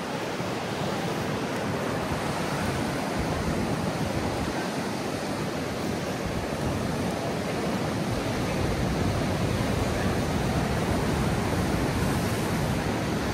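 Heavy ocean surf breaking on the beach: a steady, continuous rush that swells a little in the second half, with wind rumbling underneath.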